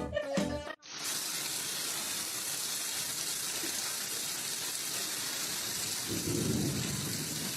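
Steady rush of running water, like a tap running, starting just under a second in after a snatch of music. A short, louder low sound comes near the end.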